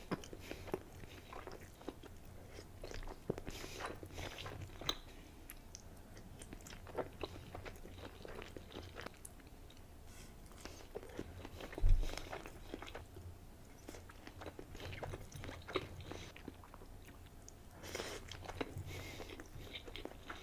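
Close-miked mukbang eating: a person biting and chewing seafood, many short sharp mouth clicks and smacks, with one loud low thump about twelve seconds in.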